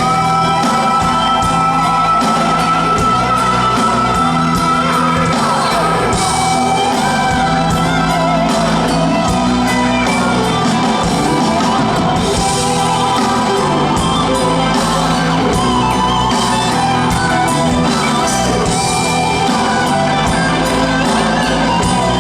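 Live music: a song performed with singing over instruments and a steady beat.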